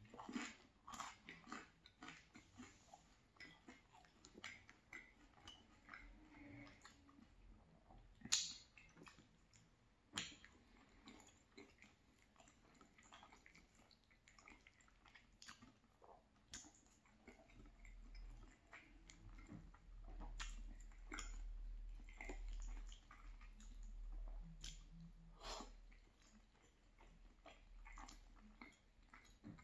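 Quiet, close-up chewing and wet mouth sounds of someone eating soft pasta in a creamy tomato sauce, with scattered sharp clicks, the loudest about 8 and 10 seconds in. A faint low rumble runs underneath in the second half.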